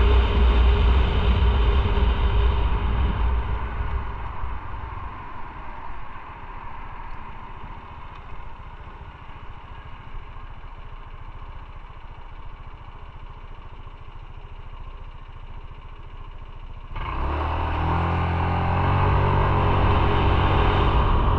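Motorcycle riding sound: engine and road noise that dies away over the first several seconds to a quieter stretch. Near the end the engine comes back in abruptly and pulls with rising pitch as the bike accelerates.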